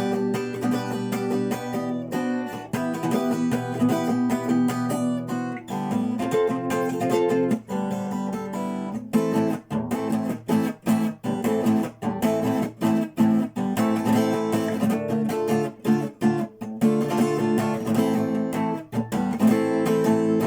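Elitaro acoustic guitar being played solo, chords and notes ringing out, with a choppy stop-start rhythm of quick muted breaks through the middle.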